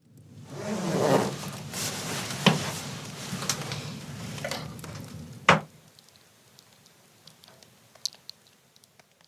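Rustling and handling noises for about five seconds, with two sharp knocks, the second and louder one about five and a half seconds in, then only faint scattered ticks.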